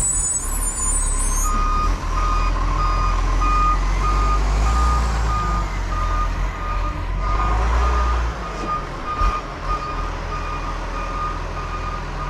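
Garbage truck's reversing alarm beeping in a steady series of short, evenly spaced beeps while the truck backs up, over the low rumble of its diesel engine.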